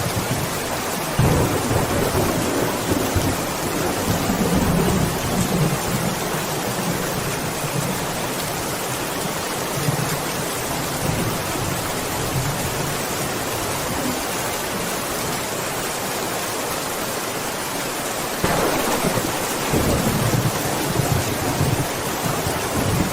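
Steady heavy rain, with rolling thunder rumbling low beneath it: one rumble builds about a second in and fades over several seconds, and another rolls in near the end.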